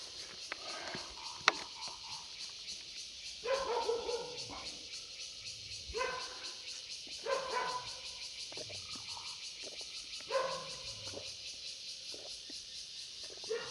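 A dog barking and whining in short calls, about five times, over a steady high hiss.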